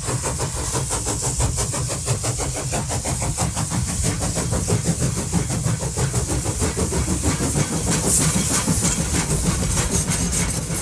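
A small motor running steadily with a fast, even clicking rattle.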